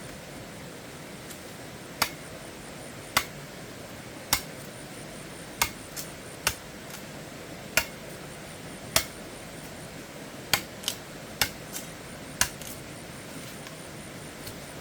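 About a dozen sharp, single knocks of a tool striking, coming roughly once a second at uneven spacing, over a steady background hiss.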